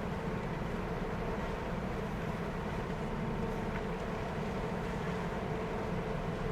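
A ferry's engines running with a steady low hum and rumble.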